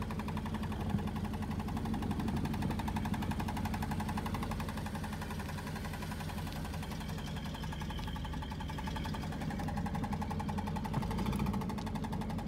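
A 1983 Buick Electra's engine running steadily with a fast, even pulsing, from a car with an exhaust leak that has sat unused for over three years.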